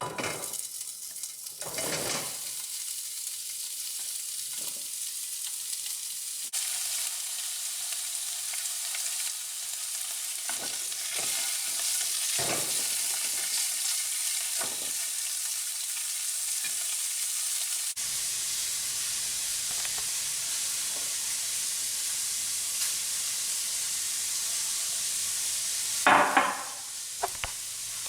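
Pork chorizo frying in a pan: a steady sizzle that starts suddenly, with occasional short knocks and scrapes of a utensil stirring it, and a louder clatter near the end.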